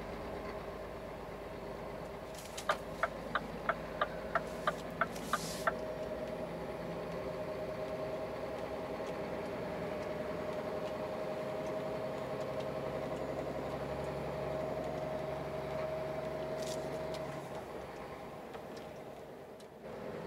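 Scania truck engine heard from inside the cab, a steady drone with a faint whine that rises slowly and then eases off near the end. About three seconds in there is a run of about nine sharp ticks, roughly three a second, followed by a brief hiss.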